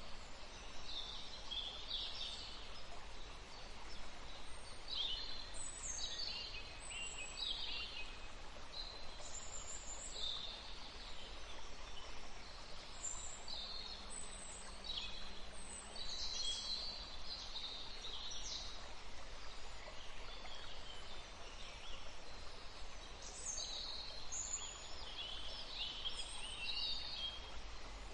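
Songbirds singing and chirping, many short high calls overlapping one after another, over a steady low background rumble.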